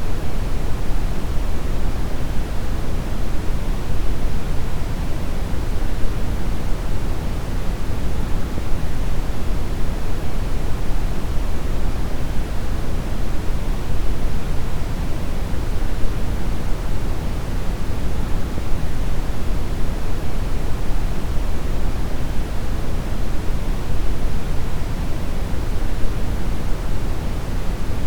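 Steady brown noise: an even, unchanging rush of noise weighted heavily toward the bass, with no tones or events in it.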